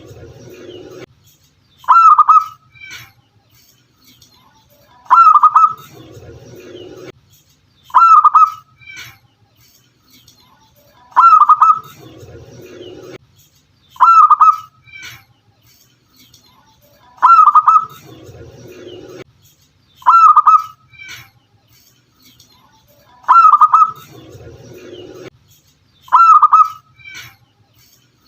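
Zebra dove (perkutut) cooing, a short loud phrase repeated about every three seconds. A fainter, low, rough sound lasting about a second comes in every six seconds between the phrases.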